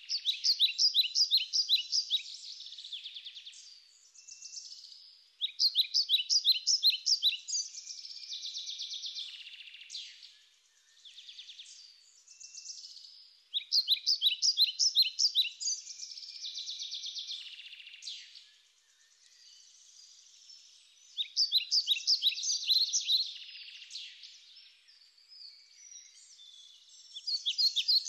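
Songbird singing: a high phrase of rapid, evenly spaced notes that trails into a buzzier part, repeated about five times, every five to eight seconds.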